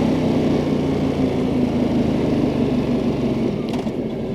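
Ducati Multistrada 1200 Enduro's L-twin engine running at a steady pitch while riding, under road and wind noise. A short crackle comes about three and a half seconds in.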